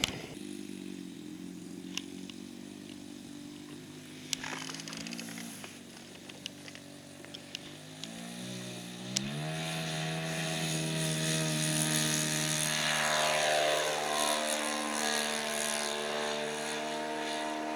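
Radio-controlled model airplane's propeller motor running steadily in flight. About eight seconds in it throttles up to a higher, louder note, and its pitch slides as the plane passes by.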